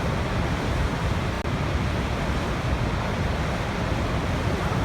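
Waterfall: a steady, unbroken rush of falling water, heaviest in a deep low rumble.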